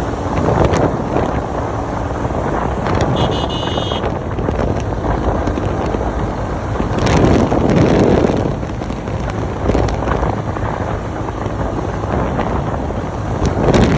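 Wind buffeting the microphone over the steady noise of a motorcycle on the road, swelling louder about halfway through and again near the end. A short high beeping sounds about three seconds in.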